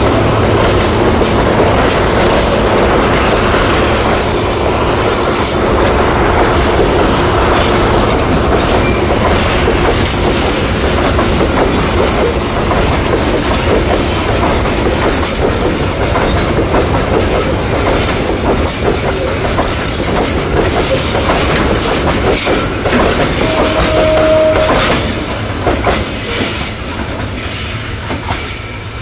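A train passing close by, its wheels clattering steadily over the rail joints. In the last third there are short, high-pitched wheel squeals and one brief lower squeal, and the sound fades toward the end.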